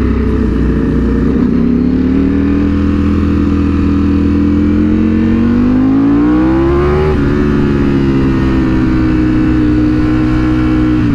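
Sportbike engine running on the move, with low wind rumble. A few seconds in the revs climb steadily, then drop sharply at about seven seconds, as on an upshift, and hold steady again.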